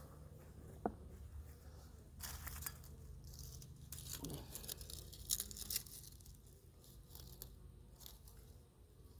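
Paper crinkling and tearing in scattered crackly bursts as the remains of a bee feed patty and its paper are handled on the hive. There is a single sharp click about a second in.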